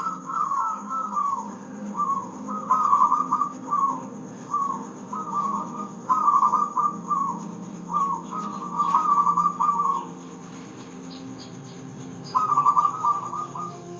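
Zebra dove (perkutut) cooing in a run of short, quick trilled phrases, one after another, with a pause of about two seconds near the end before another phrase. A low steady hum runs underneath.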